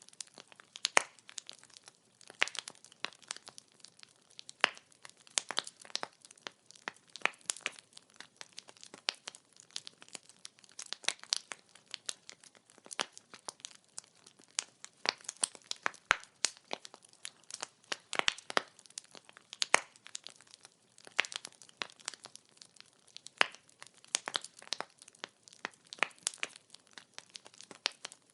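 Burning firewood crackling: quick sharp snaps and pops at an irregular pace, some coming in clusters, over a faint low hiss.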